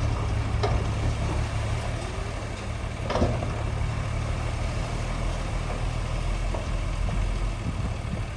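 Heavy diesel engine of earthmoving equipment running steadily at a low, even speed, with two short knocks, the louder one about three seconds in.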